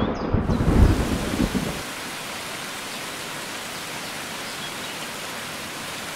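Rain falling steadily with an even hiss, over a low rumble of thunder that fades out about two seconds in.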